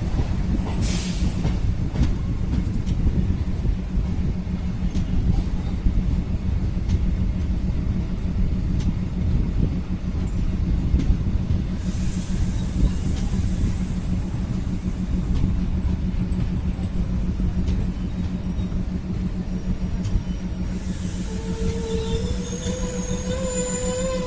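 Passenger train running along the track: a steady rolling rumble and hum, with scattered sharp clicks from the wheels and rails. A steady higher-pitched tone joins about three seconds before the end.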